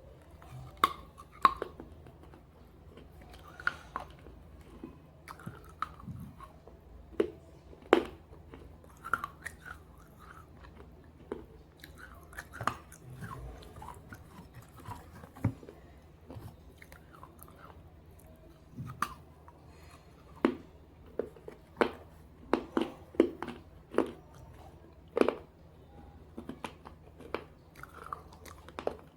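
Close-up crunching and chewing of pieces of slate coated in red gravy: irregular sharp bites and cracks a second or a few seconds apart, with quieter chewing between them. A faint steady low hum sits underneath.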